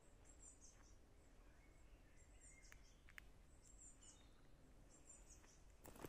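Near-silent woodland with faint bird calls: short, high chirps coming in small groups four or five times over a low steady hush, and a couple of light clicks about three seconds in.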